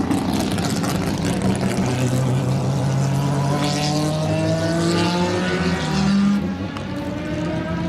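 Racing car engine running hard, its pitch climbing steadily for several seconds. It is loudest a little after six seconds in, then drops and starts climbing again.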